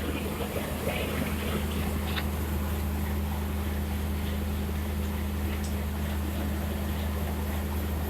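Railway locomotive standing with its machinery running: a steady low hum that does not change, with faint voices and small sounds of a station platform over it.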